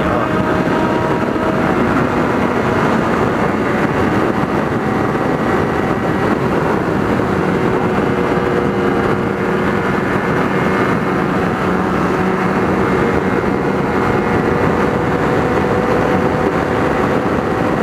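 Kawasaki Ninja 300 parallel-twin engine held at a steady cruising pace, its engine note under a constant rush of wind and road noise.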